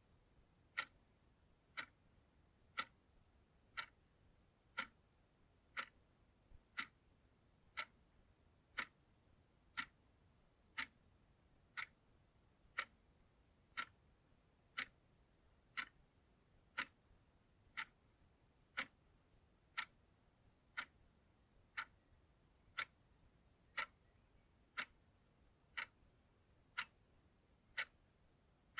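Clock ticking steadily, about one tick a second, each tick a short sharp click over a very quiet background.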